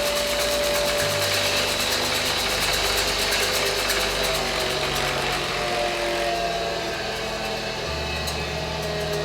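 Electric motor of a homemade 12-inch disc sander, taken from a small table saw, running steadily at full speed with its newly fitted disc spinning on the first power-up, a steady whine with a hum beneath.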